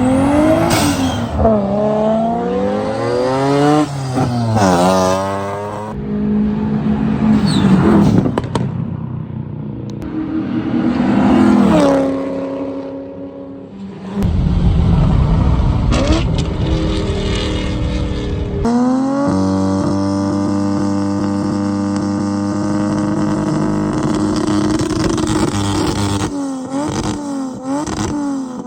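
Series of car engines revving hard: notes climbing and falling several times, then a stretch of rushing noise, a long steady high-revving note, and quick repeated rev blips near the end, with abrupt changes from one car to the next.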